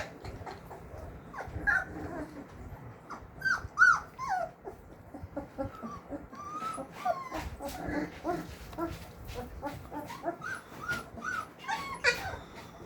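Labrador retriever puppies whining and yelping: many short, high calls that bend in pitch, one after another, with the loudest about four seconds in.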